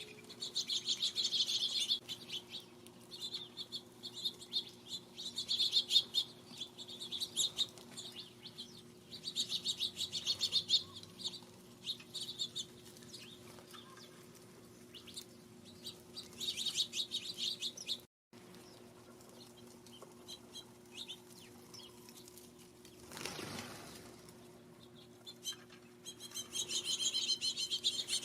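Small birds at a feeder chirping in rapid chattering runs of high chips, coming in several bursts with pauses between, and a brief flutter of wings about three-quarters of the way through.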